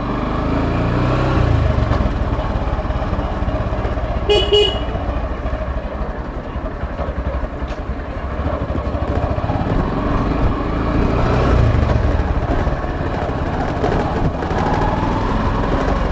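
Motorcycle running on the move, a steady engine and wind rumble, with a short horn beep about four seconds in.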